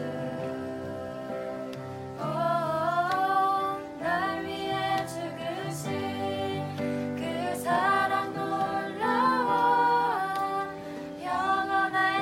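Women's voices singing a slow worship song over sustained instrumental chords. The sung phrases come in about two seconds in and rise and fall in several lines through to the end.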